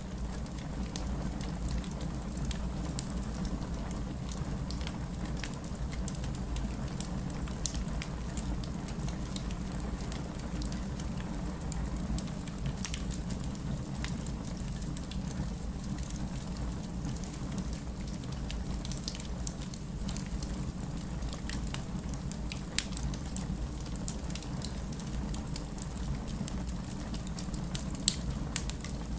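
Wood fire burning in a fireplace: a steady low rumble of flames with frequent small crackles and pops of the burning logs, and a few sharper pops, the loudest near the end.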